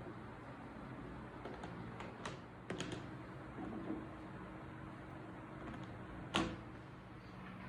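Scattered light clicks and knocks of kitchen items being handled, with one louder knock about six seconds in, over a low steady hum.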